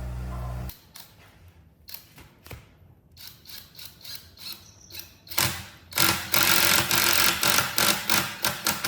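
Workshop tool sounds: a motor's steady hum cuts off abruptly less than a second in, followed by scattered taps and clicks. About five seconds in, a fast run of loud rubbing or rasping strokes begins.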